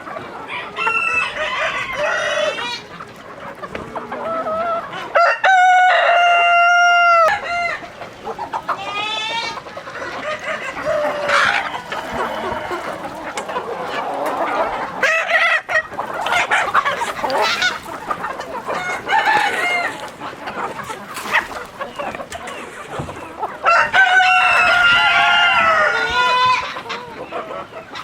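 Flock of chickens clucking throughout, with a rooster crowing twice: once about five seconds in and again near the end.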